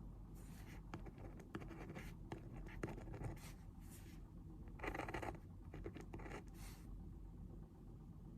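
Pen writing on paper in short scratchy strokes, with small taps and clicks between them and a louder, longer stroke about five seconds in.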